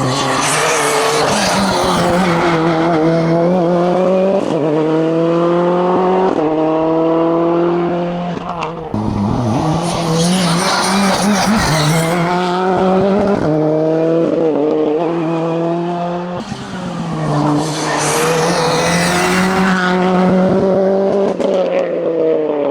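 Hillclimb race car engine at full throttle, the pitch climbing and then dropping sharply at each upshift as the car accelerates through the gears. The throttle is briefly lifted partway through before it pulls hard through the gears again.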